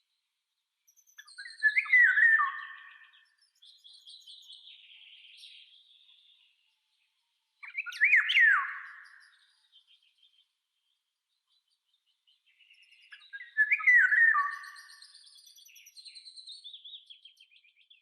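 Songbird song: a short, loud phrase of sweeping notes repeats three times, about six seconds apart, with fainter, higher trills between the phrases.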